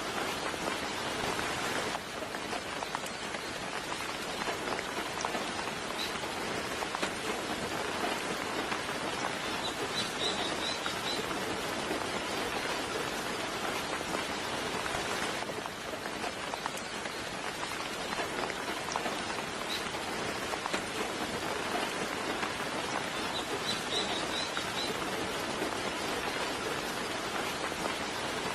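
Steady soft rain falling, with a small bird giving short high chirps twice, about ten seconds in and again near the end.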